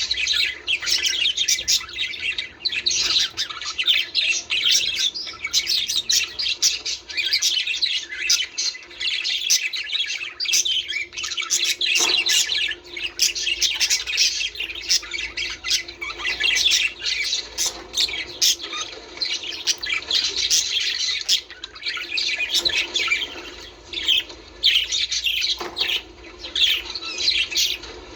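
A flock of budgerigars chattering, warbling and squawking without a break, many birds calling at once.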